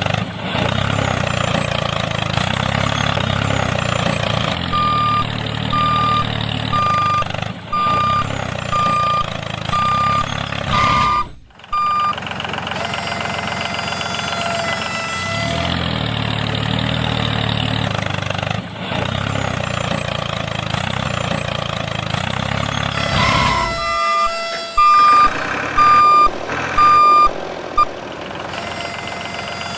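A small vehicle engine running steadily while a reverse-warning beeper sounds about once a second, in two spells; the second spell is louder.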